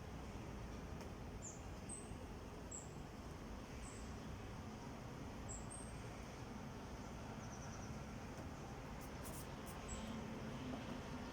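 Faint short high-pitched chirps, about one a second, over a low steady background hum.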